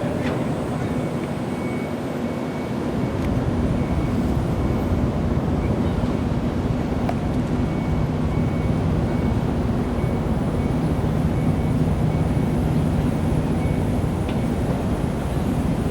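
Car ferry Ōsado Maru's engines running with a steady low rumble and hum while berthing, growing louder about three seconds in. A faint high beep repeats about twice a second.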